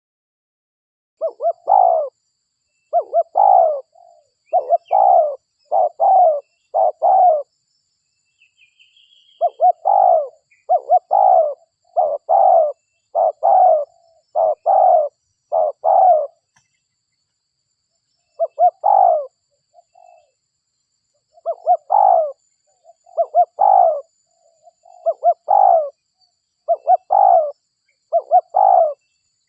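Spotted dove (derkuku) cooing over and over, in bouts of five or six deep coos about a second apart separated by short pauses. A small bird chirps faintly a couple of times in the first third.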